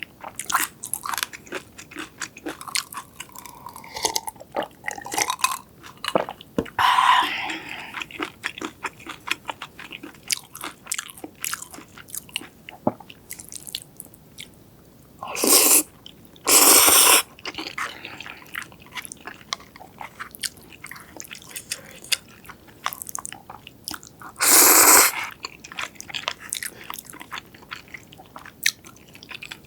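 Close-miked eating: steady chewing with quick, crisp bites and crunches. Three louder, longer noisy sounds break in, two close together a little past the middle and one later on.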